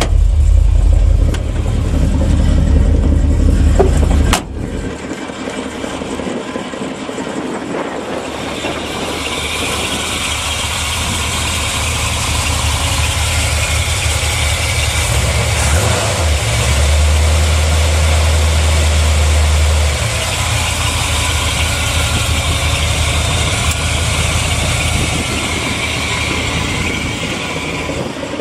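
Chevrolet 454 big-block V8 in a 1982 Chevy C30 truck, fitted with a Flowmaster muffler, idling just after a cold start with its choke wired open. A heavy low rumble drops off suddenly about four seconds in, and the engine runs on steadily.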